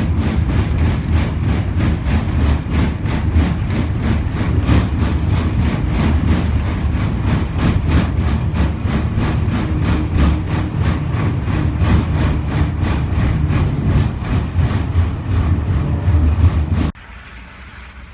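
An engine running with a steady low rumble and a regular tick, cutting off abruptly about a second before the end.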